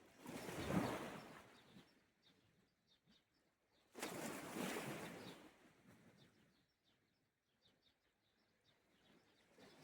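Small sea waves breaking on the shore twice, the first swelling about a second in and the second coming more suddenly about four seconds in, each washing away over a second or two. Faint bird chirps in between.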